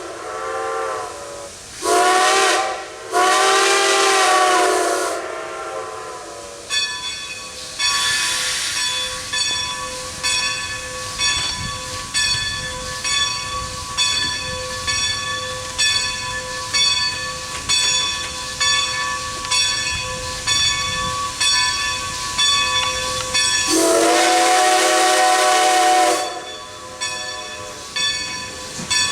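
Steam whistle of former Great Western 2-10-0 No. 90 blowing several blasts, the last one long. Then the locomotive runs with a regular beat of about one pulse a second and steady ringing tones, and the whistle blows one more long blast near the end.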